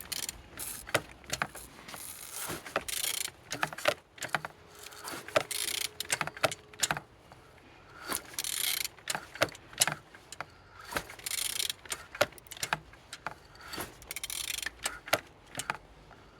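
A BMW M54B30 straight-six engine being turned over by hand with a wrench: irregular metallic clicks, rattles and short hissing scrapes. The engine turns freely, a sign that it is not seized.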